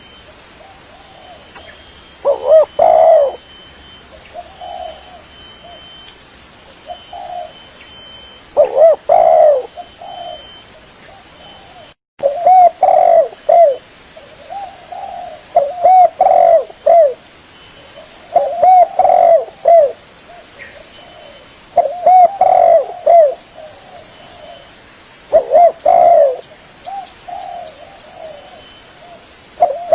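Spotted dove (tekukur) cooing: loud, repeated phrases of low, rounded coos every two to four seconds, with softer single coos between them. The sound cuts out briefly about twelve seconds in.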